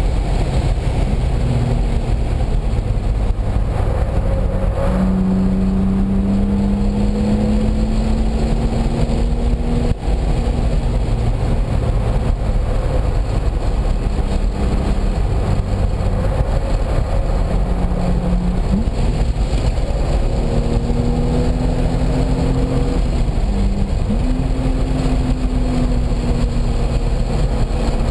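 Car engine heard from on board at speed on a race track, its pitch climbing under acceleration and jumping or dropping several times with gear changes and lifts for corners, over a steady low rumble of wind and road noise.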